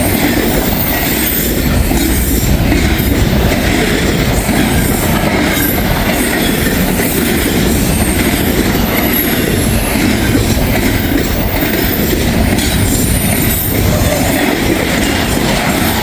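Norfolk Southern 29F freight train's cars rolling past at speed: a steady, loud rush of steel wheels on rail with clickety-clack and a faint high wheel squeal running through it.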